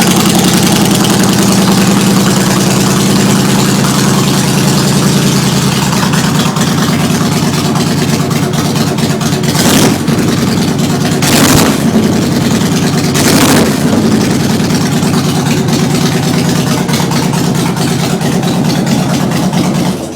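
A 2008 Kawasaki Mean Streak 1600's V-twin engine idling through Samson Street Sweeper aftermarket exhaust pipes, with a Cobra fuel processor fitted to cure backfiring. The throttle is blipped three times near the middle, the revs rising and falling back each time, and the engine shuts off abruptly at the very end. The owner thinks it sounds a lot better.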